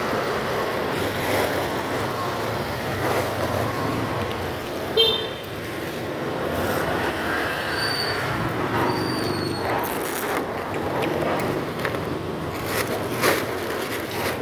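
Steady street traffic and motorcycle road noise, with a short sharp high-pitched beep about five seconds in and a couple of brief high chirps a few seconds later.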